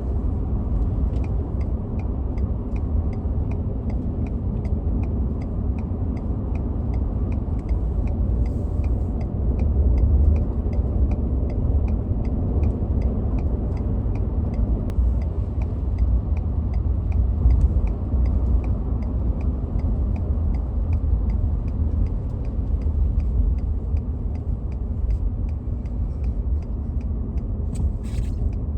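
Steady low rumble of a vehicle driving, heard from inside the cab: tyre and engine noise. A light, even ticking runs through it at about two to three ticks a second.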